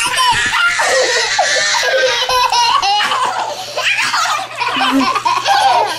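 Young children laughing and squealing loudly, several high giggles overlapping.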